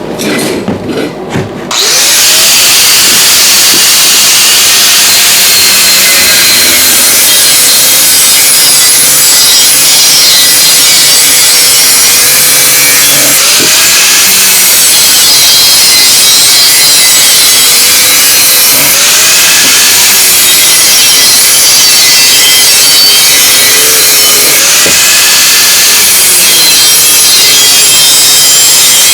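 Angle grinder grinding metal, starting up suddenly about two seconds in and running continuously, its motor pitch dipping and recovering as it bites into the work.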